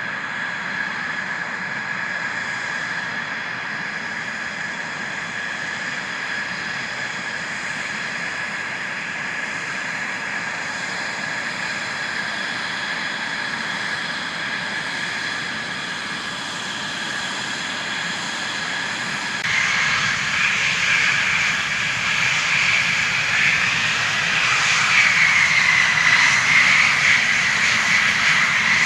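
F-16 fighter jet engines running with a steady high-pitched turbine whine over a rush of jet noise. About two-thirds of the way in, the sound jumps suddenly louder and the whine rises and wavers in pitch, as a jet comes closer.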